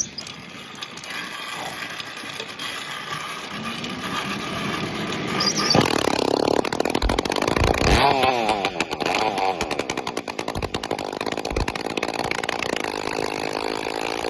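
Small two-stroke bicycle engine running with no exhaust pipe fitted, giving a raw, unmuffled sound. It revs up about a third of the way in, drops sharply in pitch a little past halfway, then pulls steadily again.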